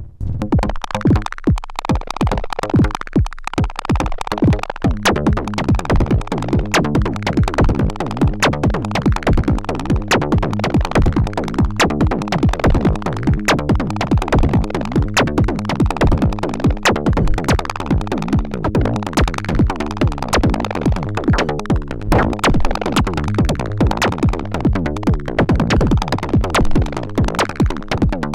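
Erica Synths Perkons HD-01 four-voice drum synthesizer playing a driving electronic drum pattern of quick, evenly spaced hits over pitched low tones. The pattern is sparse at first and fills in after a few seconds, while its sound is shifted by hand on the knobs.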